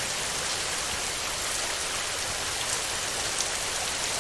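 Steady heavy rain on a metal roof: an even hiss with scattered sharp drop ticks.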